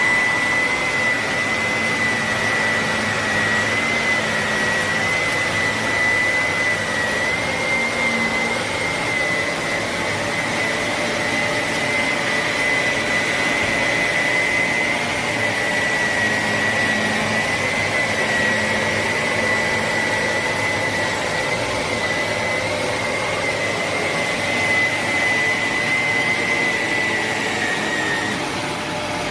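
Shark Navigator Lift-Away upright vacuum running steadily, with a high whine held throughout that dips slightly near the end.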